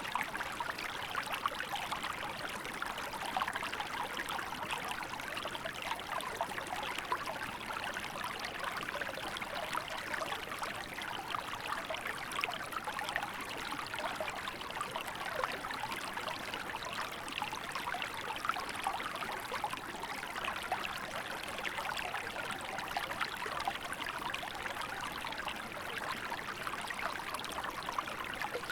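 Small river flowing steadily in winter, water running and babbling over rocks with a constant fine splashing.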